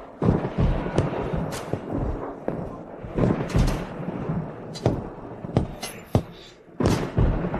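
Film sound effects over background music: a series of heavy thuds and impact hits, some sharp and some deep, spread irregularly throughout.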